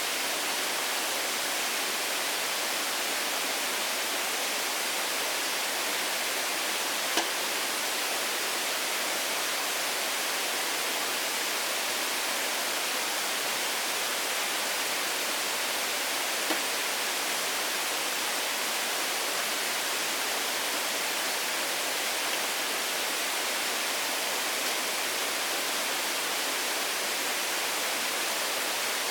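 A steady, unchanging hiss, with a faint click about seven seconds in and another about sixteen seconds in.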